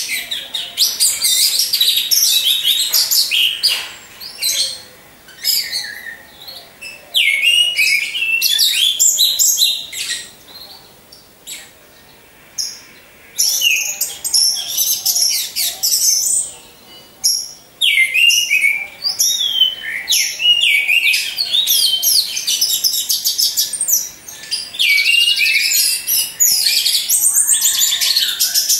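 Orange-headed thrush singing long phrases of rapid, high-pitched warbled notes, broken by a few short pauses.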